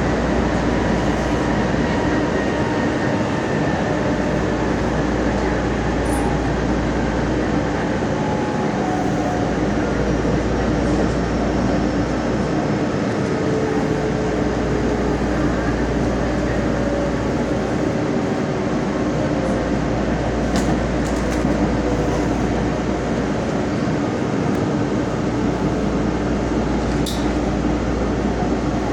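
Nagoya subway train running through a tunnel: a steady rumble of wheels on rails with a faint motor whine slowly falling in pitch, and a few sharp clicks about two-thirds of the way in and near the end.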